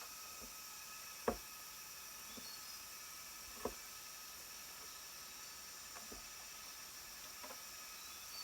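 Steady high-pitched chorus of crickets, with irregular sharp knocks over it: two louder ones about a second and three and a half seconds in, and several fainter ones.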